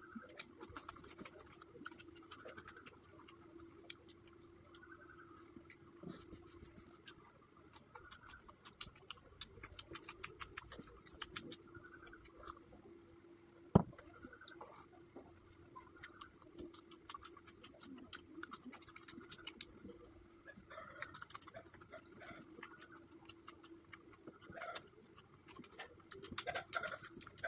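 Close-up eating sounds: a steady stream of small clicks and smacks from chewing and working rice and fish curry, with a steady low hum underneath. One sharp knock about halfway through.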